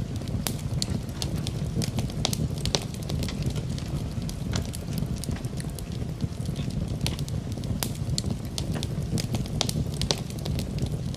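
Wood fire in a fireplace crackling, with irregular sharp pops over a steady low rumble, mixed with rain.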